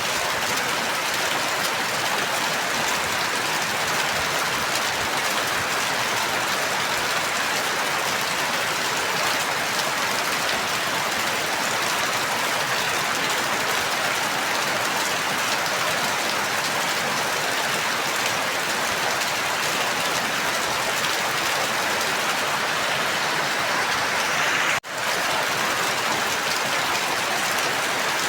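Steady, heavy rain falling, an even hiss of drops. The sound cuts out for a split second about 25 seconds in, then resumes as before.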